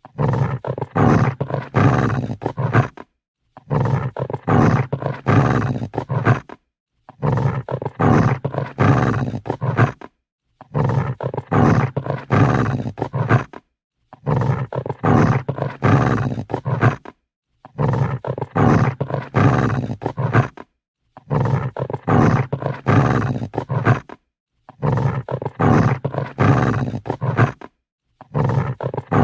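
Angry dog growling, in rough, low growls about three seconds long, repeated over and over with short silent gaps between them.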